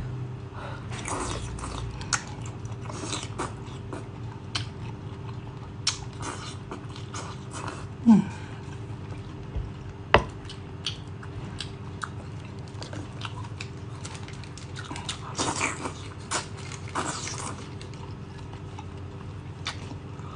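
Close-miked eating sounds of a person chewing extra-spicy noodles, with many short wet clicks and smacks. There are a few longer hissy bursts of mouth noise about fifteen to seventeen seconds in.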